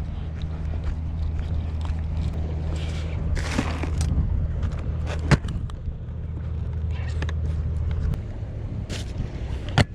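An engine running steadily with a low hum that drops away about eight seconds in, with a brief rustle and two sharp clicks.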